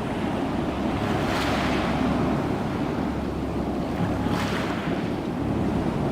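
Ocean surf breaking on a shore: a steady rush of water, with a louder wave washing in about a second and a half in and another about four and a half seconds in.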